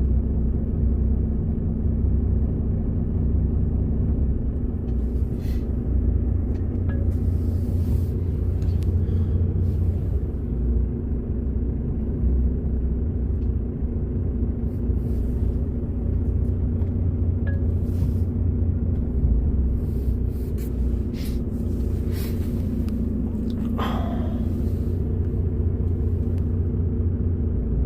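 Heavy truck's diesel engine running under load as the drive wheels spin in place in snow: a steady low rumble, with a few short hisses along the way.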